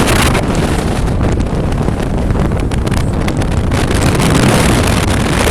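Strong wind buffeting the microphone, a loud, steady rush with constant flutter.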